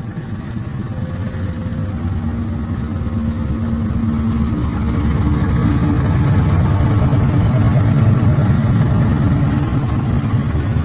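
Diesel locomotive engine running, growing louder as it approaches and peaking about eight seconds in before easing slightly as it passes.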